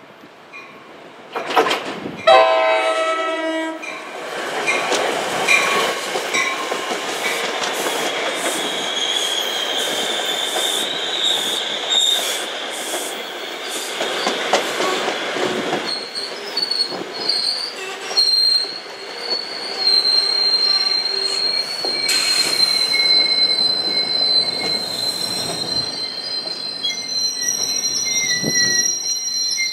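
NJ Transit commuter train arriving: a short horn blast about two seconds in, then the coaches rolling past with wheel clatter. From about halfway through, a steady high-pitched wheel squeal runs over the rumble.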